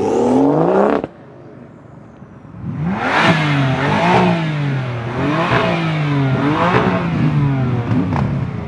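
Car engine revving hard: one rising rev cuts off sharply about a second in. After a short lull it revs up and down again and again, the pitch climbing and dropping about once a second.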